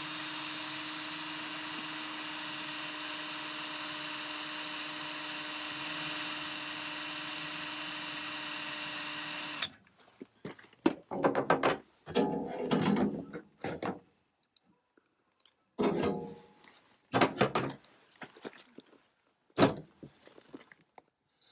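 A steady mechanical drone with a constant hum, which stops abruptly about ten seconds in. After that comes a power drill working a hole in the Land Rover's body in short, irregular bursts, with sharp knocks in between.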